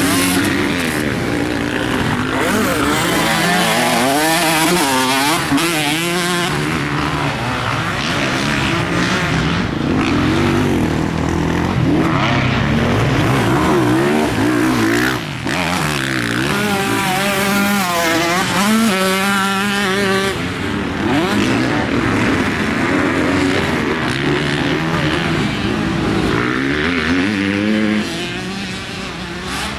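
Motocross bike engine revving hard and easing off again and again, its pitch climbing and falling with the throttle, with a brief chop in the sound about halfway through.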